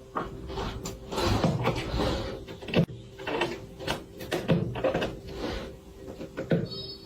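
Irregular knocks and bangs, about a dozen over several seconds, like something thumping against a cupboard or door, over a faint steady hum.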